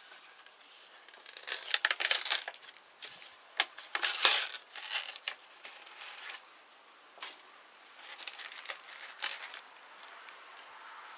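Irregular crinkling and rustling in short bursts, with a few sharp clicks: something like wrapping or packaging being handled. The busiest stretch is from about one and a half to five seconds in.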